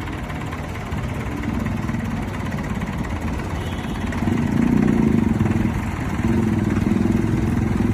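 Tractor engine running, louder as it is revved or put under load about four seconds in, easing off briefly near six seconds and then picking up again.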